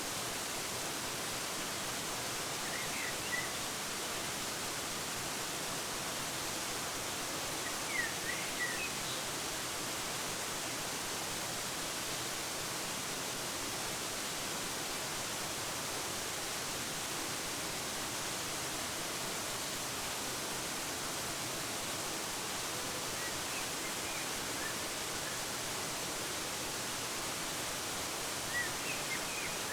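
Waterfall rushing steadily with an even hiss. Short bird chirps come through a few times: about 3 s in, twice around 8 s, and near the end.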